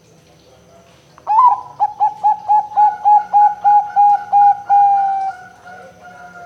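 Zebra dove (perkutut) cooing: a quick run of about a dozen short notes, roughly four a second, ending in one longer drawn-out note that fades.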